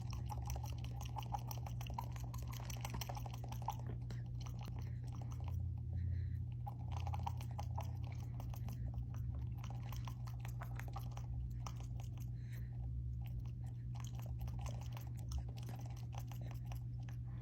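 A pet nibbling and chewing at a person's fingernails: quick, uneven small clicks and crunches, over a steady low hum.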